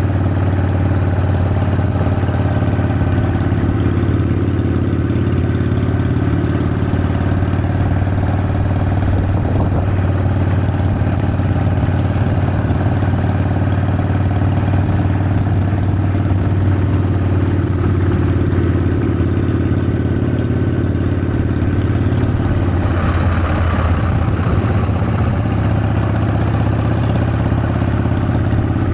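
Harley-Davidson Sportster's air-cooled V-twin engine running steadily. A short swell of higher-pitched rushing noise comes about three-quarters of the way through.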